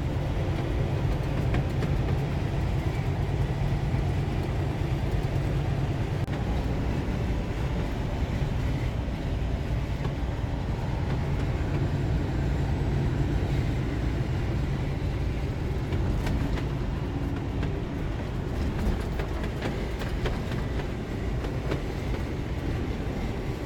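Steady low drone of a semi truck running, with engine hum and road noise heard from inside the cab.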